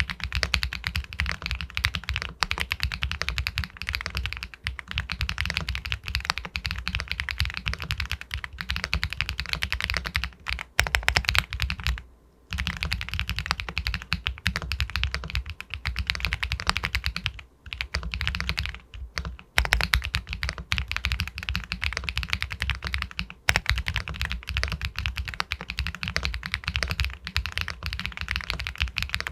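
Continuous fast typing on an Epomaker Galaxy 80 Pro aluminium mechanical keyboard with White Jade linear switches: a dense run of keystrokes with a few short pauses, one about 12 seconds in, and a cluster of louder strokes just before it.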